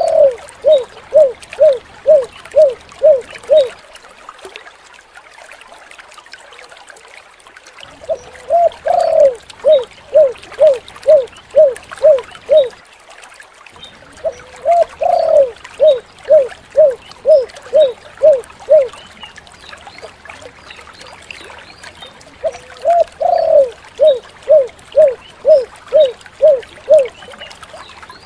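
Spotted dove (tekukur) cooing four times. Each phrase is a rising opening coo followed by a run of about seven short, even hoots at roughly two a second, with a few seconds' pause between phrases.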